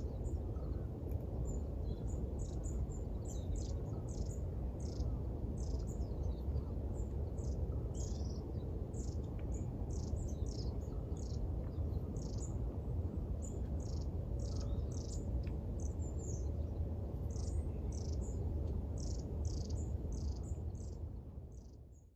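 Birds chirping at sunrise: many short, high chirps in quick succession over a steady low background rumble. The sound fades out near the end.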